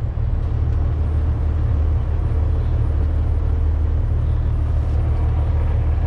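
Kenworth semi truck's diesel engine running with a steady low rumble.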